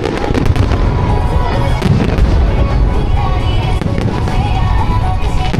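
Dense fireworks barrage: many bursts and crackles in quick succession, over pop music played through the display's loudspeakers.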